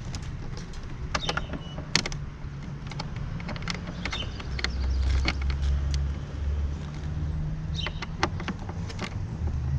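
Scattered light metallic clicks and taps of a windscreen mounting bolt and hand tools being worked, the bolt binding and not wanting to go in. Under them a steady low hum grows louder about halfway through.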